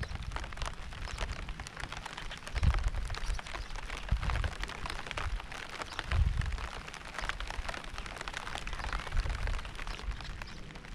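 Steady rain pattering as a dense spray of small drop impacts, with low rumbles swelling up three times in the first two-thirds.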